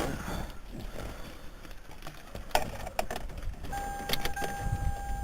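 Rustling and sharp clicks of a car door being opened and someone climbing in, with a low thump near the end. About three and a half seconds in, a steady high electronic tone starts and keeps going.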